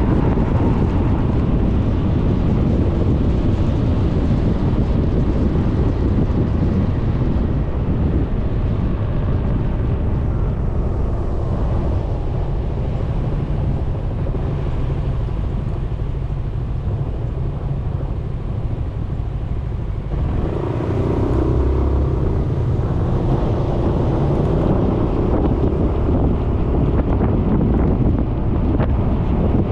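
Riding noise from a Suzuki Burgman 400 scooter on the move: wind buffets the mounted camera's microphone over the scooter's engine and road noise. The noise eases for a few seconds mid-way, then picks up again about twenty seconds in, with a humming tone underneath.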